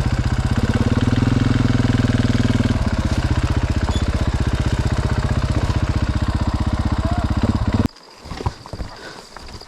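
Dirt bike engine running at low revs with a steady rapid beat, rising a little about a second in. Near the end it cuts out abruptly, leaving a few faint knocks and scuffs.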